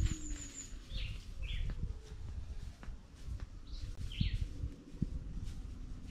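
A bird calling in pairs of short falling notes, the pairs about two and a half seconds apart, with a thin high trill that stops just under a second in. A few soft low knocks and rustles sit underneath.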